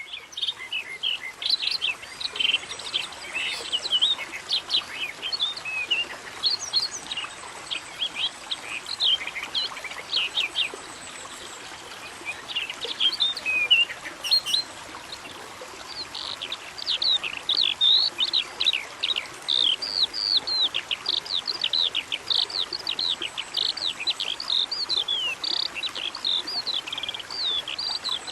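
Many small birds chirping together in a dense chorus of short, quick calls. The calls thin out briefly in the middle and then pick up again.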